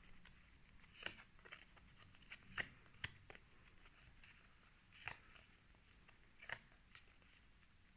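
Near silence with a few faint, scattered clicks and rustles of paper flashcards being handled and flipped.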